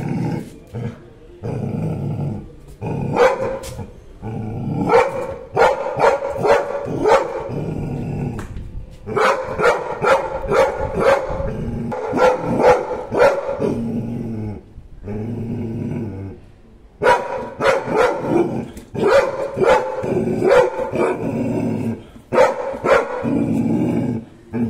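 Labrador retriever barking in rapid clusters, with low growling between the bouts, pausing briefly twice.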